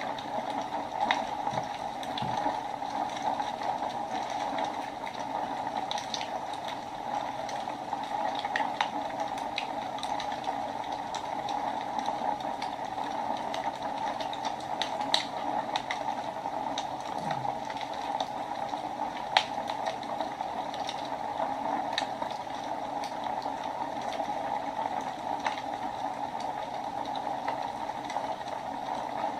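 Wood fire burning in a fireplace: a steady hiss with irregular sharp crackles and pops.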